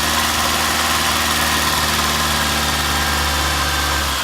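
Car engine running steadily at a constant speed.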